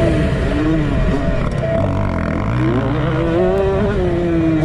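Honda CR125 two-stroke dirt bike engine revving. Its pitch rises and falls with the throttle, dipping low about halfway through and climbing back up.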